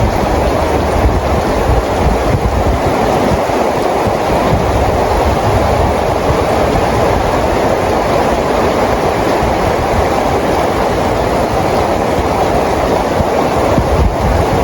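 Steady rain falling, an even, unbroken rush of noise with a low rumble beneath it.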